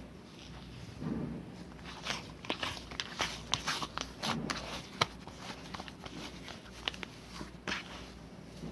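Slime being squished and stretched by hand, making irregular sticky clicks and small pops, with a couple of soft low squelches about a second in and again past four seconds.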